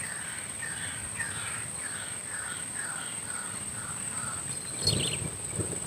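White-breasted waterhen calls: a run of short, repeated notes, about two or three a second, that fades out after about four seconds. A steady high-pitched tone runs underneath, and there is a brief rustling thud near the end.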